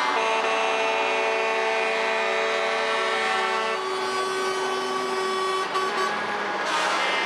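Truck air horns sounding long held multi-tone chords; one chord stops about halfway while another carries on, then gives way briefly to truck engine noise near the end.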